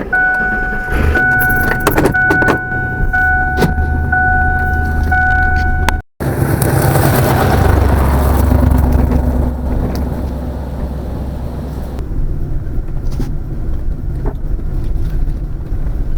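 A vehicle running: for the first six seconds a steady electronic warning tone sounds in roughly one-second pieces over the engine, then, after a break, the low rumble of the vehicle driving.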